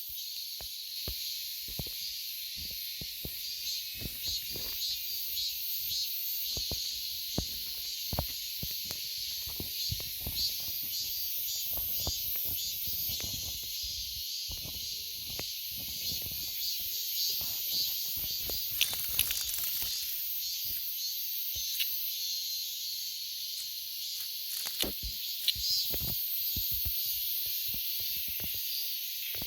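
Cicadas buzzing in a steady, high-pitched continuous drone, with scattered soft knocks and thumps, the sharpest just before 19 s and around 25–26 s.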